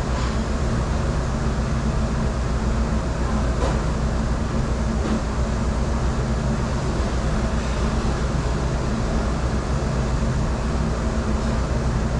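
Steady, loud machinery drone of a commercial dish room, a deep hum with a constant hiss over it, and a few faint clicks and clatters.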